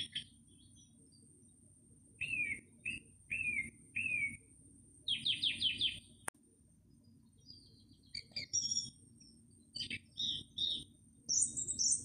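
Small birds chirping in short bursts: a run of four quick falling whistled notes, then a fast trill of repeated notes, then a jumble of varied chirps, over a low steady rumble and a thin steady high tone. A single sharp click comes near the middle.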